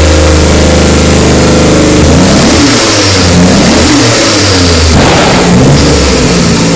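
Nissan RB26DETT twin-turbo straight-six, freshly swapped in and on its first start, idling through a 3-inch exhaust, then revved in several blips about two seconds in before settling back to a steady idle.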